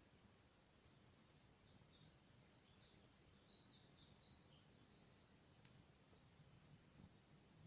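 Near silence with faint bird chirping: a quick run of short, high calls from about one and a half to five seconds in, over a low steady hum, with two faint clicks.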